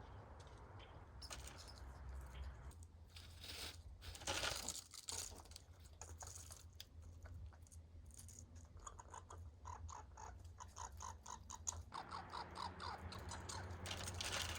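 Squirrels squabbling over food: rustling and scuffling, then a run of rapid, repeated chattering calls starting about nine seconds in.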